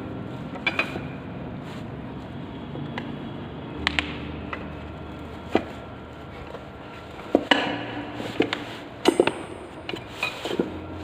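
Scattered metallic clinks and knocks, about seven or eight irregular hits with short ringing, typical of hand tools and metal wheel parts being handled and set down during scooter wheel work.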